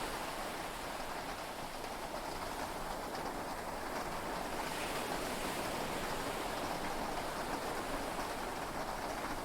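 Heavy rain and sea waves heard from inside a yacht cabin, a steady, even wash of noise.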